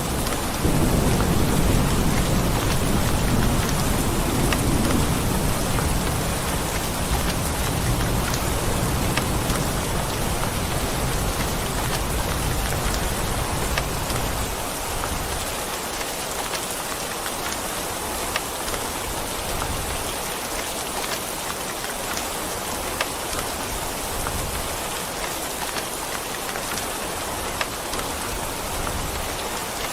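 Steady rain falling on a surface, an even hiss with scattered drop ticks. A low thunder rumble swells about a second in and fades away about halfway through.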